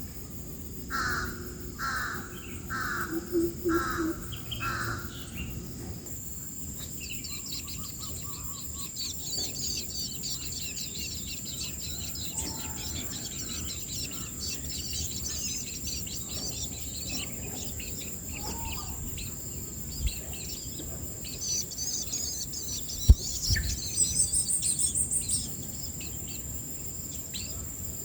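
A bird gives five harsh, caw-like calls, about one a second. Then dense high-pitched bird chirping over a steady high insect whine, broken by a sharp click and a quick run of very high calls near the end.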